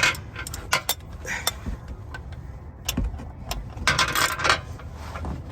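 Ratchet wrench and socket clicking and clanking against metal while turning an engine that will not turn over because it is seized. There are scattered sharp clicks and a short run of rapid clicks about four seconds in.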